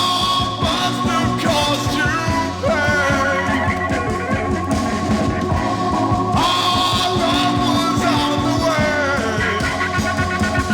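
Instrumental rock passage with no vocals: a high note held throughout, with sliding lead lines above it over a full bass and rhythm backing.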